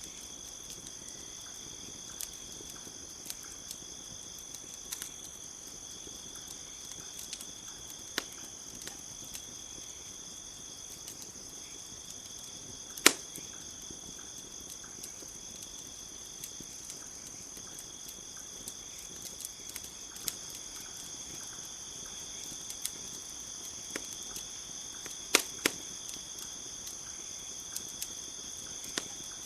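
Steady high chorus of crickets with a wood campfire crackling underneath: scattered sharp pops and snaps, the loudest about 13 seconds in and two close together about 25 seconds in.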